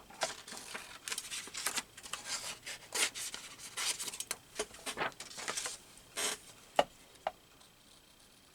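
Paper being handled and cut: a quick run of rustling, scraping strokes for about six seconds, then two sharp clicks about half a second apart.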